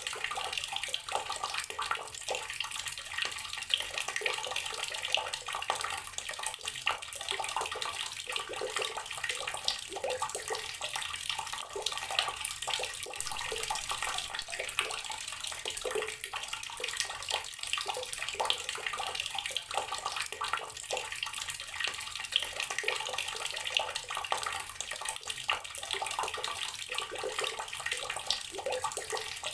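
Water tap running steadily, a stream splashing into a basin or tub with a continuous, irregular spatter.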